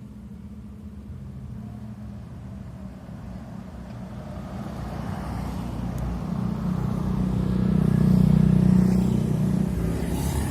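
A motor vehicle's engine running as it passes, growing louder to a peak about eight seconds in and then fading.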